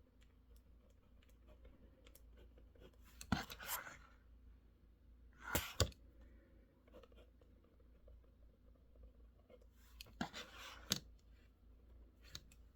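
Quiet desk-work sounds: faint scattered clicks and a few short scratchy bursts with sharper clicks, about three, five and a half, ten and twelve seconds in, over a low steady hum.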